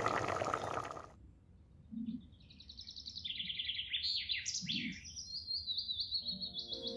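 Background music fades out about a second in. After that, birds call in a rapid series of high chirps and trills.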